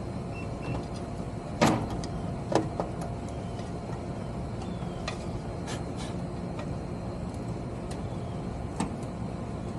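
A few sharp clicks and knocks from parts and tools being handled, the loudest about a second and a half in, another a second later and a small one near the end, over a steady low rumble.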